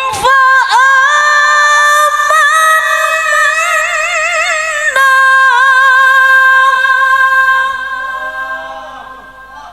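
Woman's voice in melodic Quran recitation (tilawah), drawing out one long ornamented note with quick wavering turns, then holding a steady high pitch about halfway through and fading out near the end.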